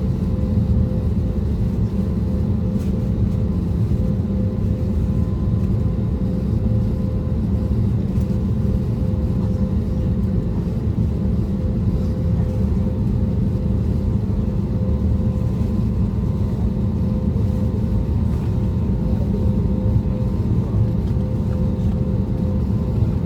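Cabin noise inside an Airbus A320neo with CFM LEAP-1A26 engines: a steady low rumble with a constant hum, holding even throughout.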